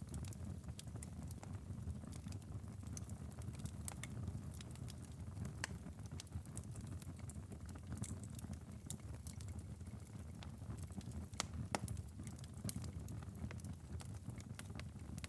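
Wood fire crackling in a fireplace: a steady low rumble of flames with frequent sharp, irregular pops and snaps, a few of them louder, about four seconds in and near twelve seconds.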